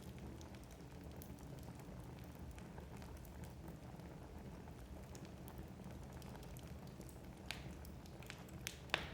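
Wood fire burning in a fireplace, with a low steady rumble of the flames and faint scattered crackles. A few sharper pops from the burning logs come near the end.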